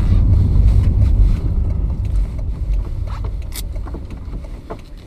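Toyota MR2's engine running hard with its throttle stuck wide open, a loud low rumble that begins dying away about a second and a half in.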